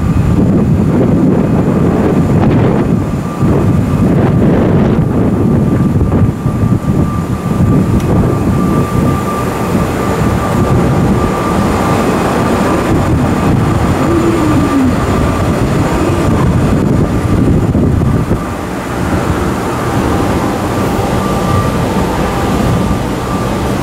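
A Chiba New Town Railway 9800 series electric train standing in the station, its onboard equipment running with a steady low rumble and a faint constant whine.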